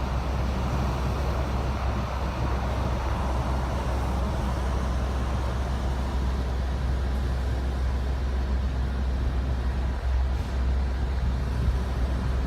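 Strong wind buffeting the microphone: a steady low rumble with a hiss of wind noise above it.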